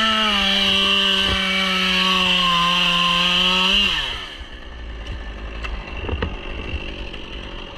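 A Stihl chainsaw revs up and runs at full throttle cutting through birch wood for about four seconds, then drops back off. A few light knocks follow.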